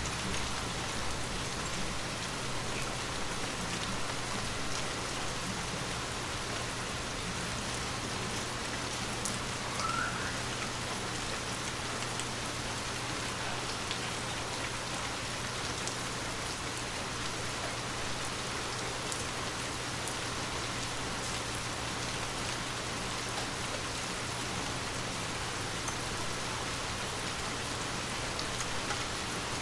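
Steady, light, continuous rain falling on a window, with scattered drops ticking.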